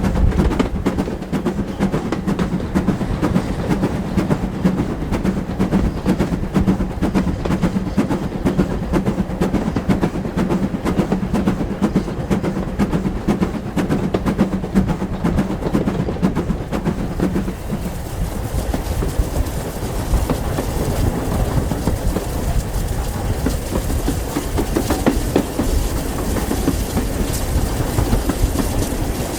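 A train running along the rails, with a continuous clickety-clack of wheels over the track and a steady low hum that fades out about two-thirds of the way through.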